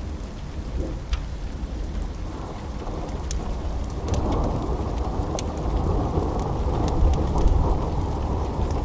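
Steady rain with a deep, rolling thunder rumble that swells about four seconds in, with scattered sharp ticks on top.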